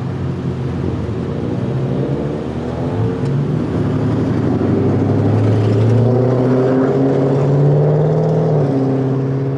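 Car engine pulling steadily, its pitch rising slowly as it gains speed and dropping back near the end as it eases off.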